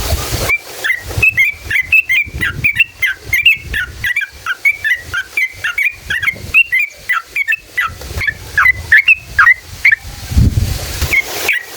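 Yellow-vented bulbul (trucukan) singing a long, fast run of short chirping notes, the long rolling 'ropel' song used to lure other trucukan to call back. A low rumbling noise is heard at the start and again near the end.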